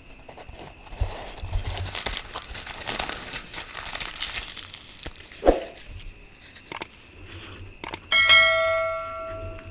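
Fried puri (luchi) being torn apart by hand, with crackling and crinkling for several seconds, a soft knock and a few clicks. Near the end, metal tableware is struck once and rings like a small bell, fading over about a second and a half.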